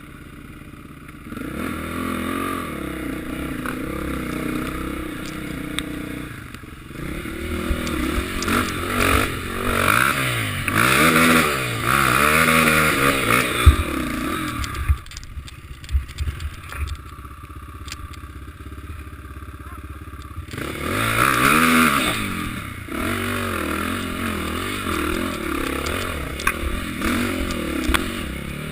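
Motocross bikes' engines revving up and down as they ride past, loudest in the middle and again about two-thirds of the way through.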